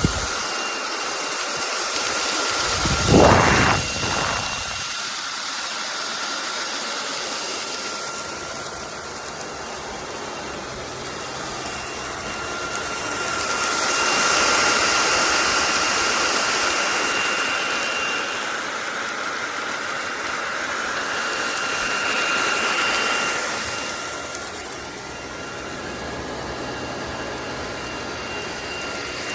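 Cordless stick vacuum motor running with a steady high whine, swelling and easing as it is moved. There is a brief louder burst about three seconds in.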